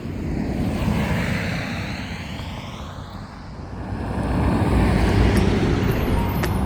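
Road traffic: vehicles driving past on the street, a continuous rush of tyre and engine noise that dips and then grows louder about four seconds in.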